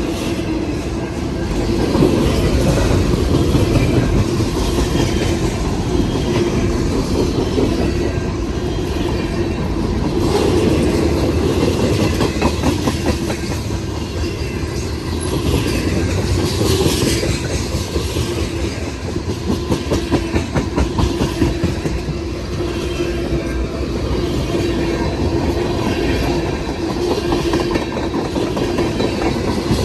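Railway cars rolling past at close range, their steel wheels clicking rhythmically over rail joints in a steady clickety-clack, with a brief high screech of wheels on rail about halfway through.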